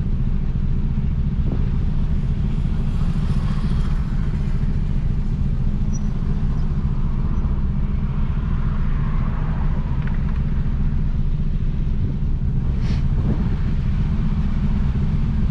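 Peugeot 206 1.4's four-cylinder engine idling steadily through a straight-pipe exhaust with no muffler. It makes an even low drone at a constant pitch, with no revving.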